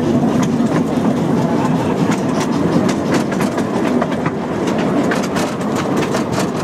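Small open carriages of a miniature railway running along the track: a steady rumble of wheels on rail, with rapid irregular clicks and clatter from the wheels and couplings.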